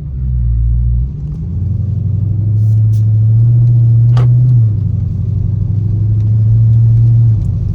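Dodge Charger Scat Pack's 392 HEMI V8 running at low revs while driving, a steady low drone that climbs slightly and then drops in pitch twice, about halfway and near the end. A single sharp click sounds about four seconds in.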